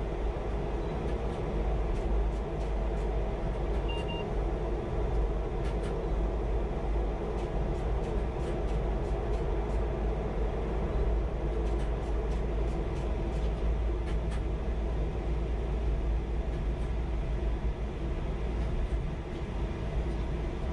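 Chinese high-speed train running through a tunnel, heard from on board: a steady deep rumble and rushing noise with scattered faint clicks.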